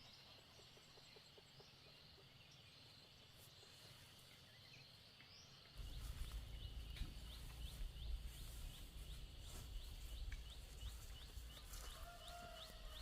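Quiet outdoor ambience with a faint steady high hum. About six seconds in, a low rumble of noise suddenly sets in, along with a short high chirp repeated about twice a second.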